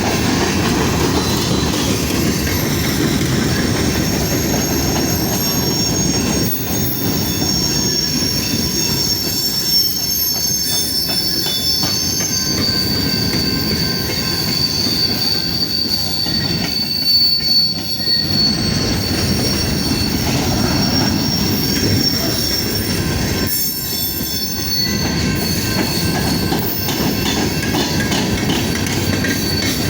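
Freight train cars rolling past, a steady heavy rumble with a high steady wheel squeal over it.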